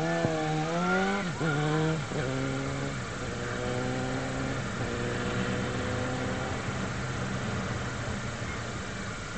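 Motorcycle engine pulling away and accelerating, its pitch rising and dropping twice in the first two seconds as it shifts up through the gears, then holding a steady note while cruising and slowly fading.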